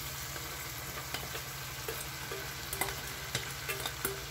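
Bacon and tomato sizzling steadily in a frying pan, with scattered light clicks and scrapes of a spatula and a steel pot against the pan as shredded cabbage is tipped in.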